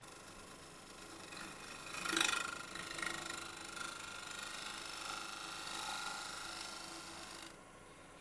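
Wood lathe running while a negative rake scraper takes light, fine passes across a spinning magnolia bowl: a steady scraping hiss over the machine's hum. It is loudest about two seconds in and drops to the lathe alone near the end.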